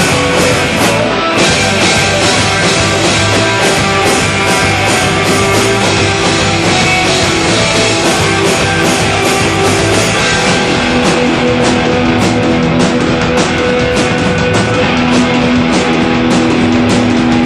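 Live instrumental rock band playing: distorted electric guitars over drums with steady regular beats, with long held guitar notes in the second half.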